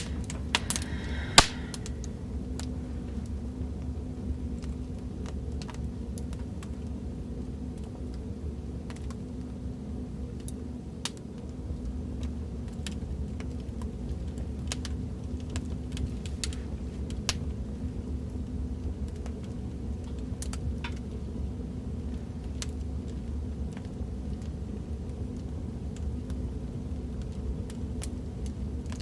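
Fireplace fire crackling: a steady low rumble of burning with irregular sharp pops and snaps, one louder snap about a second in.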